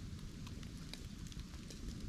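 Bamboo burning in an open fire: a steady low rumble of flame with a few scattered sharp crackles.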